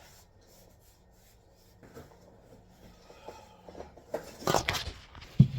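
Speaker-box enclosure panels being handled in a car trunk: faint rubbing at first, then a loud scraping rub about four seconds in and a sharp knock near the end.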